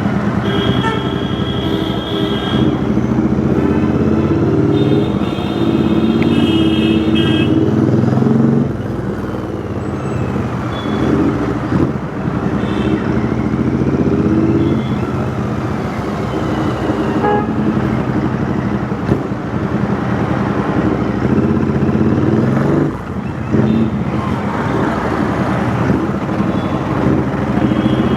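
Royal Enfield Interceptor 650's parallel-twin engine running through a custom 2-into-1 exhaust in city traffic, easing off about eight seconds in and briefly again near the end. A vehicle horn sounds twice in the first seven seconds.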